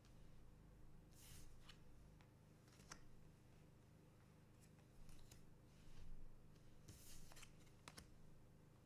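Faint swishes and light clicks of trading cards being slid and flicked through by hand, scattered every second or so, over a low steady hum.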